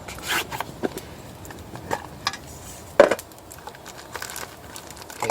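Scattered light clicks and knocks of small objects being handled, with one sharper knock about three seconds in.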